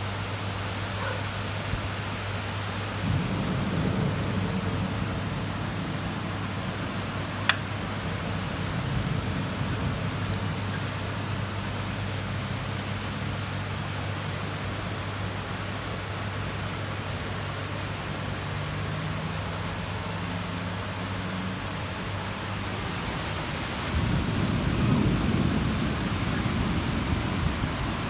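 Heavy rain falling steadily, with low rumbles of thunder about three seconds in and again swelling near the end. A single sharp click about seven seconds in.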